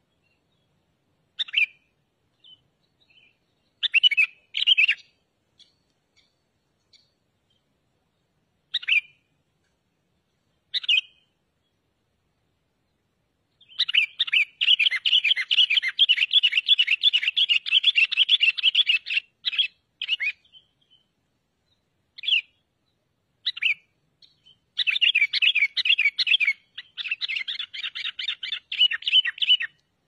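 Songbird calling: a few separate short, high chirps, then a long run of rapid chattering notes lasting about six seconds, a few more single chirps, and another long rapid chatter near the end.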